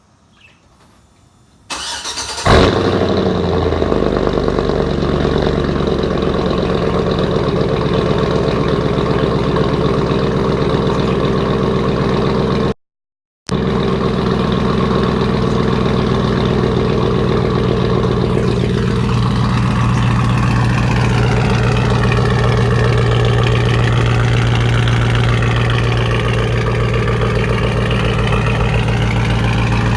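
Cold start of a 2006 Chevrolet Silverado's 5.3 L V8 through a straight-piped exhaust with the mufflers deleted: it cranks briefly about two seconds in, catches with a loud flare, then settles into a steady, loud fast idle. The sound cuts out completely for under a second near the middle.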